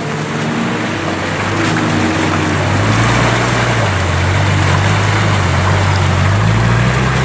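Off-road vehicle engine running under load, its pitch rising and falling several times, under a loud steady rushing noise.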